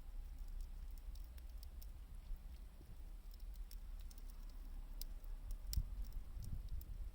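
Wood fire crackling: scattered sharp snaps and ticks over a steady low rumble.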